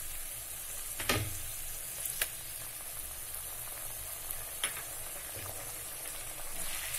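Chopped onions and green chillies sizzling steadily in hot oil, with three sharp taps of a spoon on the pan as ginger-garlic paste goes in, the first the loudest.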